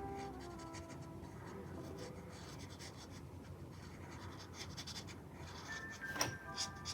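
Drawing tool scratching on paper in short, irregular strokes, with one sharper tap near the end.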